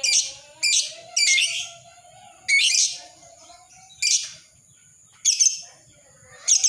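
Lovebird giving shrill, high-pitched chirping calls: seven short calls at uneven gaps of about a second, with a lull in the middle.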